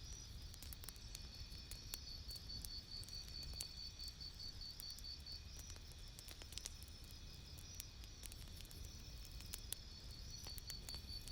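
Campfire crackling: irregular sharp pops and snaps over a low steady rumble, with a high, evenly pulsing chirp running alongside.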